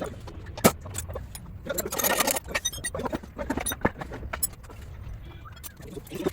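Metal tools and parts being handled, with irregular clinks, taps and a short scrape, over a low steady hum.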